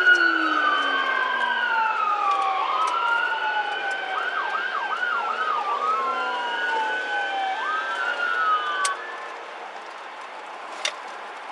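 Police car sirens sounding, several overlapping, with long rising and falling sweeps and a fast yelp about halfway through. The sirens stop about nine seconds in, leaving a quieter steady hiss.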